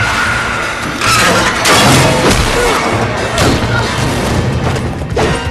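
Cartoon fight-scene soundtrack: score music under loud booms and crashes, with sudden surges of sound about a second in, just under two seconds in, and again at about three and a half and five seconds.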